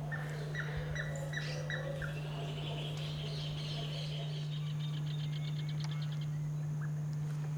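Wild birds calling: a run of five short, evenly spaced notes, then a fast trill of rapidly repeated notes lasting about three seconds, over a steady low hum.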